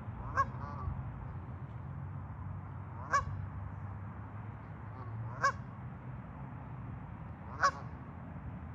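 A bird giving four short honking calls, about two to three seconds apart, over a steady low background rush.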